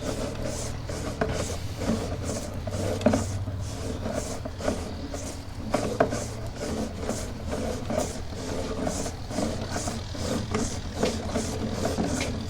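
Sewer inspection camera push cable being pulled back and reeled in, rubbing and clicking about three times a second over a steady low hum.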